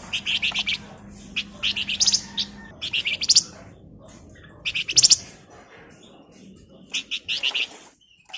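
Flamboyan (wergan Jawa, Javan fulvetta) singing in short bursts of rapid chattering notes, about five phrases with pauses between them.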